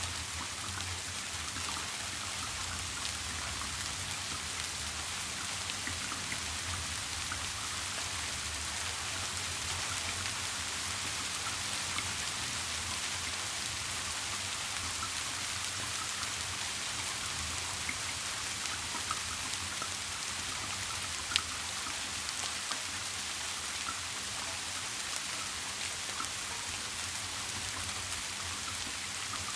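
Steady rain falling, with scattered individual drops ticking over the even hiss and one sharper tick about two-thirds of the way through.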